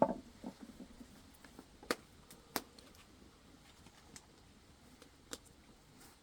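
An axe striking a log of firewood right at the start, then a few scattered, fainter sharp knocks.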